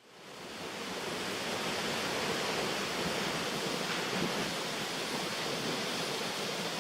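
Latourell Falls pouring down, a steady rushing roar of falling water that fades in over about the first second.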